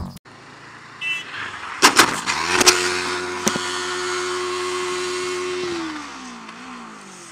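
Motorcycle engine picking up revs after a few sharp clicks, holding a steady pitch for about three seconds, then dropping away as the throttle closes, with wind rushing over the helmet-camera microphone.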